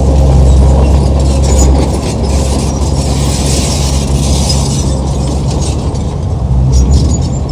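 Crawler bulldozer working: its diesel engine runs steadily under loud clanking and rattling of the steel tracks.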